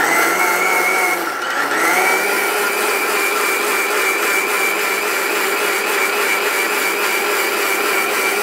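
Commercial mixer grinder running at full speed, grinding dried turmeric pieces into powder: a loud, steady motor whine that sags for a moment about a second in, then climbs back and holds.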